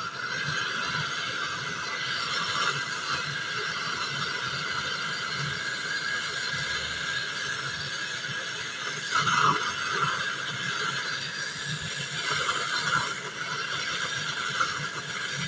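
Handheld gas torch flame hissing steadily while heating the copper tube joints on a refrigerator compressor, with a brief louder flare about nine seconds in.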